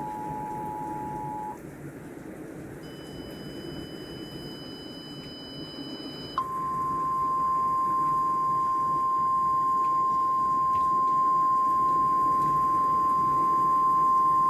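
Weather radio alert tones: a two-tone attention signal that stops about a second and a half in, then a single steady, loud warning alarm tone that starts about six seconds in and holds on. This is the alarm that comes before a spoken warning message. A low static hum lies under it.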